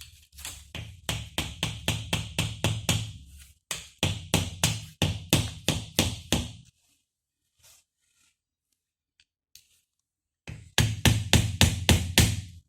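Rapid hammer blows, about four a second, in three runs with a pause before the last, struck while working on a steering gearbox.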